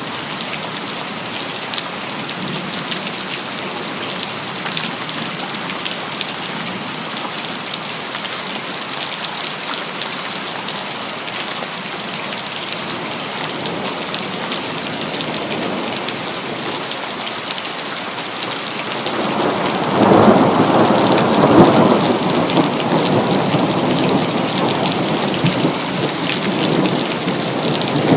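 Steady rain pattering on hard surfaces. About two-thirds of the way through, a roll of thunder swells up and rumbles for several seconds, then slowly fades under the rain.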